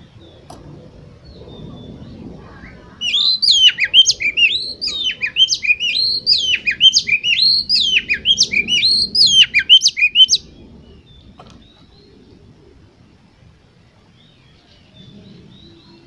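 Oriental magpie-robin (kacer) singing a loud, fast run of varied sweeping whistled notes for about seven seconds, starting a few seconds in. This is the kind of song used to stir a competition bird into singing.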